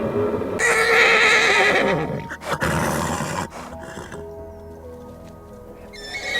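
Horse neighing: a whinny with a shaky, wavering pitch lasting about a second and a half, followed by a few sharp knocks, with another whinny starting near the end. Music plays underneath.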